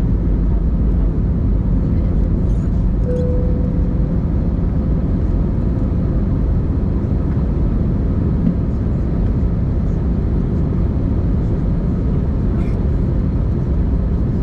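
Airbus A320-200 in flight, heard as a steady, even rumble of engines and rushing air inside the cabin, with a brief thin tone about three seconds in.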